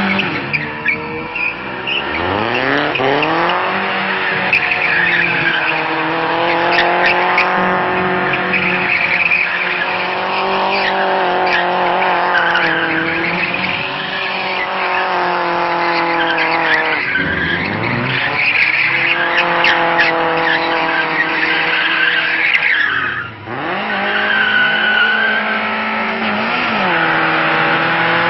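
Tofaş Doğan SLX's naturally aspirated four-cylinder engine held at high revs in second gear while the car spins doughnuts, tyres squealing. The revs drop sharply and climb back about two seconds in, again around seventeen seconds, and once more near twenty-three seconds.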